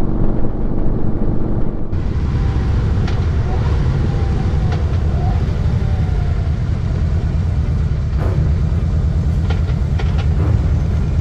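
Motorcycle engine running at road speed with heavy wind rumble on the microphone. About two seconds in the sound changes abruptly and turns brighter, and a few short clicks come near the end.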